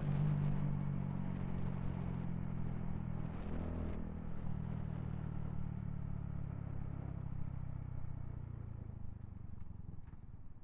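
Honda Grom's small single-cylinder engine running steadily while riding, with road and wind noise, gradually growing quieter toward the end.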